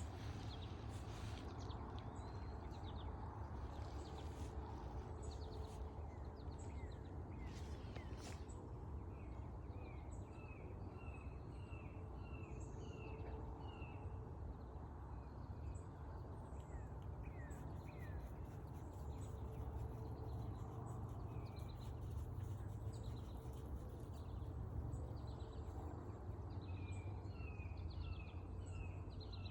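Small birds chirping in runs of short, quick repeated notes over a steady low rumble of outdoor noise, with a few brief crackles about eight seconds in.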